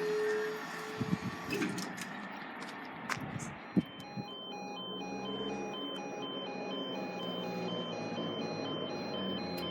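A passing electric train's tone and clicks fade over the first couple of seconds. From about four seconds in, a level crossing warning alarm sounds a repeating two-tone pattern of short beeps, about two a second.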